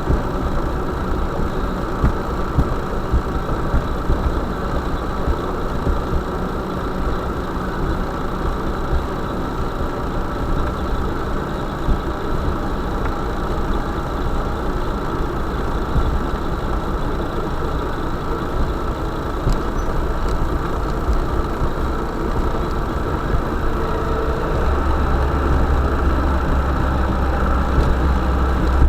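Vehicle engine running steadily with a low rumble, the deep low end growing stronger about 24 seconds in.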